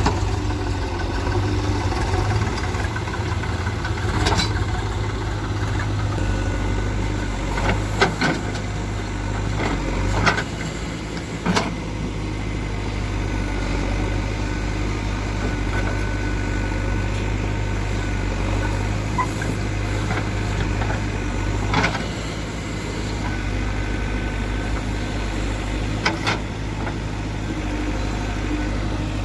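JCB 3DX backhoe loader's diesel engine running steadily, with about six sharp metal clanks scattered through it.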